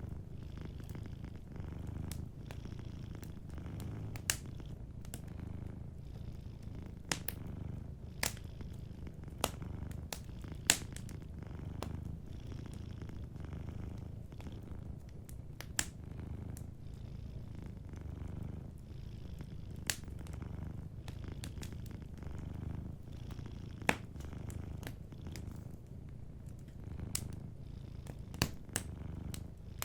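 A domestic cat purring steadily, a low rumble that swells and eases in slow cycles with its breathing. Over it, a wood fire crackles, with scattered sharp pops.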